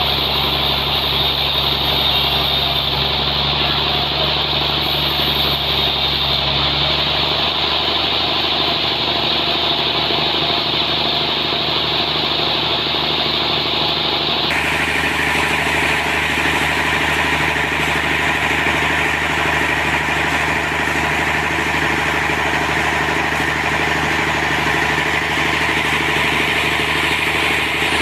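Sawmill machinery running steadily: an engine hum with a hissing noise above it, whose character changes abruptly about halfway through.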